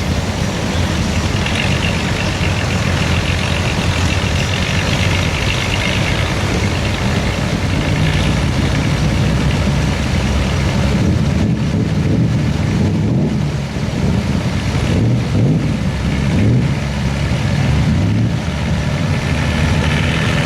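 Modified pulling tractor's engine running loud, its pitch rising and falling as it revs.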